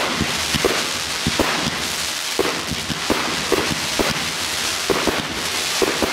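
Fireworks display: a rapid run of shells and mines bursting, several loud bangs a second over a continuous crackling hiss.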